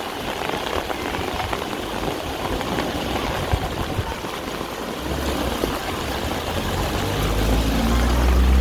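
Heavy rain falling steadily. About five seconds in, a low motor vehicle engine hum comes in and grows louder toward the end.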